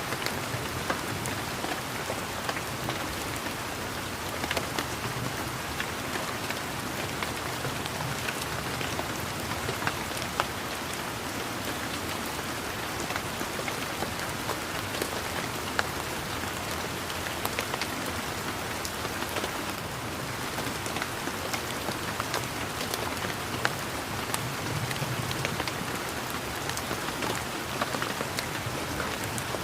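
Steady rain falling on leaves and garden surfaces, a continuous hiss with many individual raindrops pattering and ticking close by.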